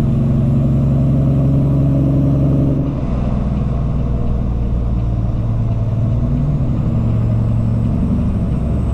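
Cummins ISX inline-six diesel in a Peterbilt 379 truck running on the road. About three seconds in, the engine note drops lower and a little quieter, then runs on steadily.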